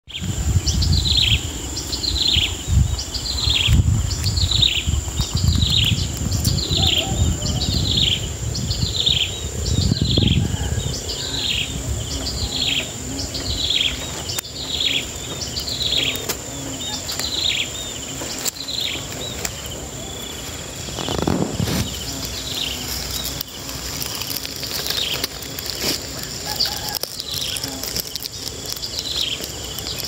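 A bird repeats a short, falling call about once a second, growing fainter after about eighteen seconds, over a steady, high-pitched insect drone. A low rumble comes and goes through the first ten seconds, and again briefly a little past twenty seconds.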